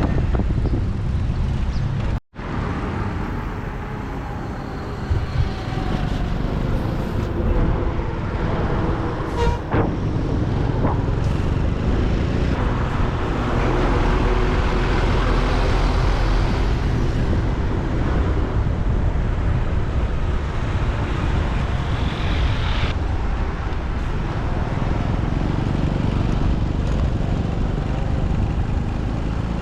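Motorbike riding through city traffic: the bike's engine runs steadily under a continuous wash of road and traffic noise. The sound cuts out completely for a moment about two seconds in.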